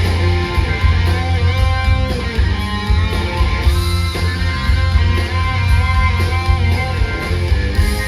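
Rock band playing live, an instrumental passage: electric guitar melody lines with bent notes over bass and drums, with regular cymbal strikes.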